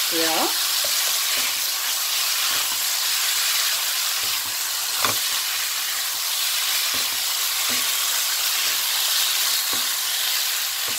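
Gochujang-marinated pork and carrot sticks sizzling steadily in a frying pan while a wooden spatula stirs them, with scattered scrapes and knocks of the spatula against the pan. The sharpest knock comes about five seconds in.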